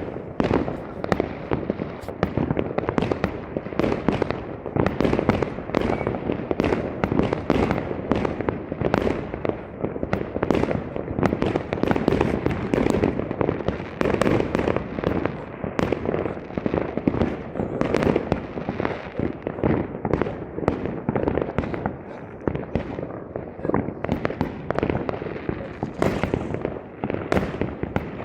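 Fireworks going off: a dense, unbroken stream of bangs and crackles, several a second throughout.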